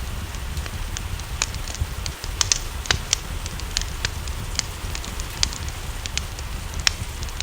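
Wood fire crackling, with irregular sharp pops scattered through, over a steady hiss of rain and a low rumble.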